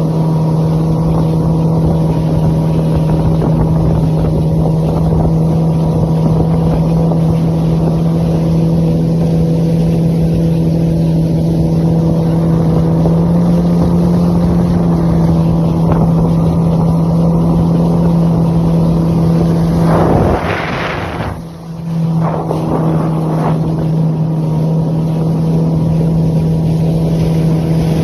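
Jet ski engine running at a steady speed under way. About twenty seconds in, the engine note briefly breaks off with a short rushing noise, then picks up again.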